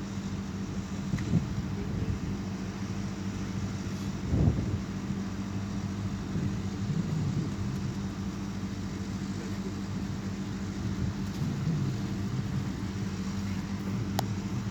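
Steady low mechanical hum, like a running engine, with a single thud about four seconds in.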